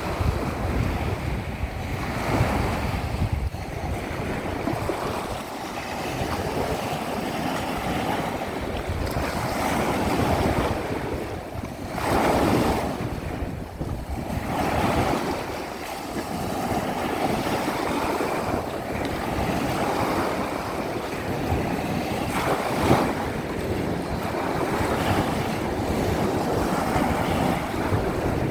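Sea surf washing in and out, with wind buffeting the microphone in a low rumble; the wash swells and falls, with a louder surge about twelve seconds in.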